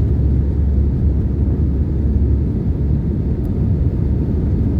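Steady low cabin rumble of an Airbus A320 with CFM56-5B engines, heard from a window seat inside the cabin, even in level throughout.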